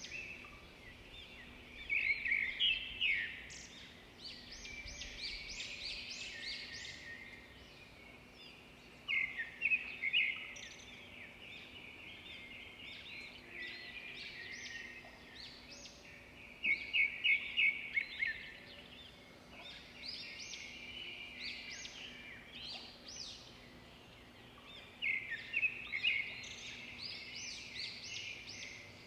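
Several songbirds singing and chirping, with loud flurries of quick repeated notes every several seconds over a faint steady background hum.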